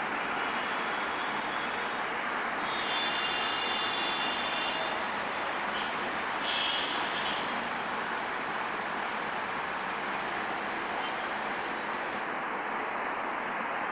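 Steady rushing rumble of a passenger train of LHB coaches rolling away along the rails. Two brief high-pitched tones sound about 3 and 6.5 seconds in.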